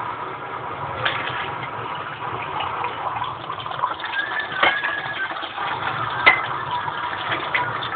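Running water with a steady rush, and a few sharp clicks or knocks: about a second in, near the middle, and the loudest one past three-quarters through.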